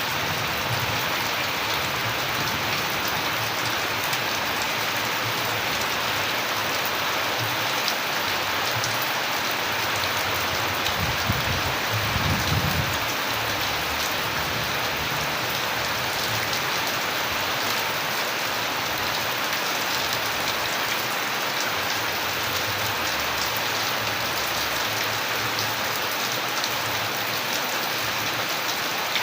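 Steady rain falling on a surface, an even dense hiss with scattered drop ticks, and a brief low rumble near the middle.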